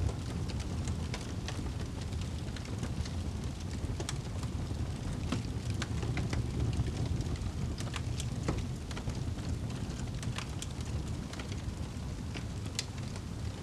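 Wood fire crackling and popping: many irregular sharp snaps over a steady low rumble.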